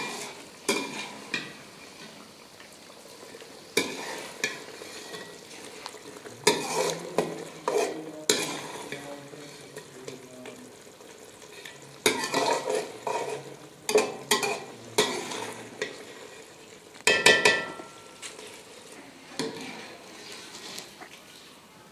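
Food sizzling as it fries in a pan, with a utensil stirring and scraping against the pan in bunches of strokes every one to three seconds.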